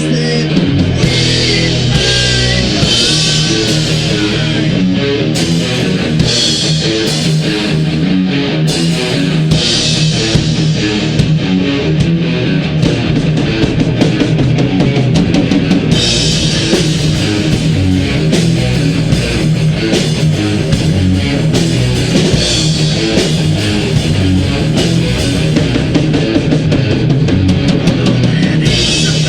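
Heavy metal band playing, with electric guitars over a driving drum kit.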